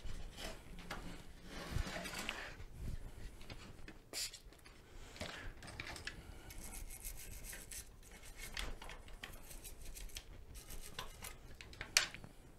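Hand-cleaning of mobility scooter parts: irregular rubbing and scrubbing strokes, with runs of quick back-and-forth scrubbing and a sharp click near the end.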